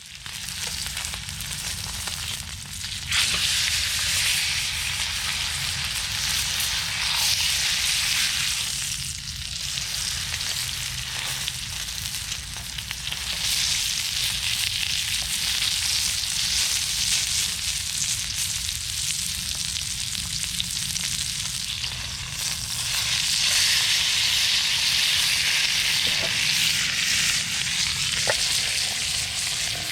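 Steak sizzling and frying in a frying pan over a wood-burning stove, a steady hiss that swells louder about three seconds in and again near the end, with a low rumble underneath.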